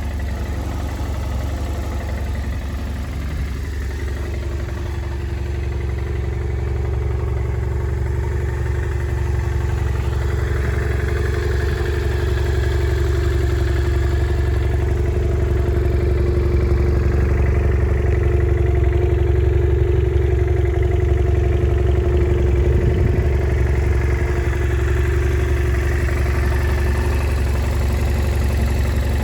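BMW F650GS's 798 cc parallel-twin engine idling steadily, growing slightly louder over the first half.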